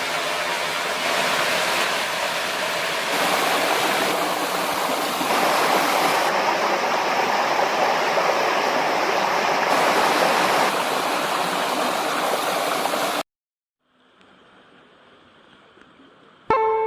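Rushing river water, a steady rush that shifts slightly at several hard cuts and stops abruptly about 13 seconds in. A faint quiet stretch follows, and guitar music begins just before the end.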